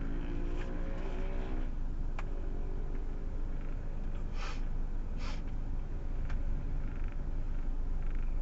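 Proton Waja CPS 1.6 being driven, heard from inside the cabin: a steady rumble of engine and road noise, with two short hisses about four and a half and five seconds in.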